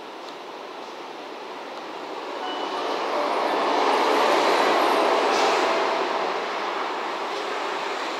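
EF65 electric locomotive and its string of rail-carrying flatcars running past at low speed, a steady rumble of wheels on rails that swells to its loudest about halfway through and then eases slightly.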